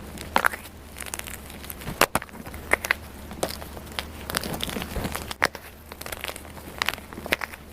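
Dyed gym chalk being crushed and crumbled: a run of irregular, sharp crunches and crackles.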